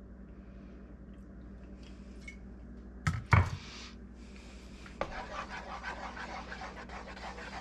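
A knock about three seconds in, then thick tomato soup bubbling and spluttering in the pot with many small irregular pops, starting about five seconds in, over a steady low hum.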